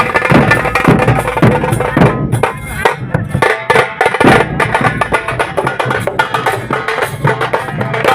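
Fast, dense drumming in the Muharram procession 'kodi' style, with rapid strokes following closely on one another.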